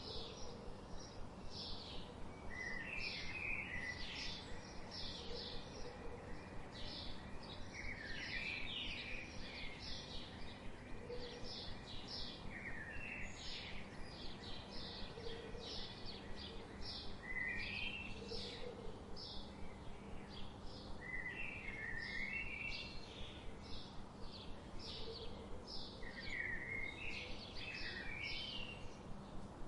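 Birds chirping and singing: a steady run of short, high chirps several times a second, with a lower warbling phrase breaking in every few seconds, over a faint steady background hum.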